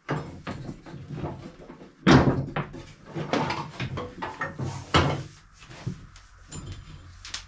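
A series of handling knocks and thuds, with a heavy thud about two seconds in and another sharp knock about five seconds in.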